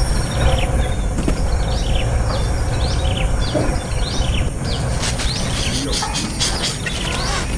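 Small birds chirping: short, falling chirps about one or two a second, becoming a dense, rapid flurry of chirps about five seconds in.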